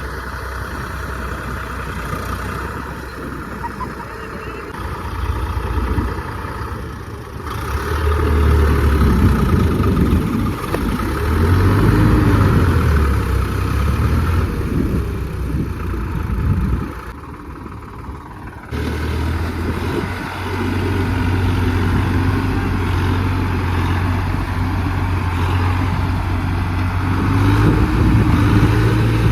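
Tractor diesel engine revving up and down repeatedly as it works, then running steadier and rising again near the end. The sound drops away briefly past the middle and comes back suddenly.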